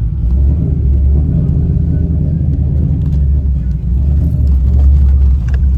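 A vehicle engine running with a loud, steady, deep low rumble.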